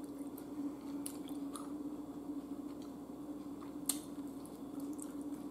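Close-up eating sounds of someone chewing and biting into thin-cut ribeye steak dipped in garlic butter, with a few small mouth and chopstick clicks, the sharpest about four seconds in as a bite goes into the mouth. A steady hum runs underneath.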